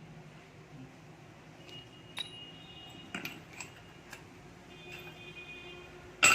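Metal engine parts and tools clinking together: several light clinks that ring on briefly, then a louder clank near the end.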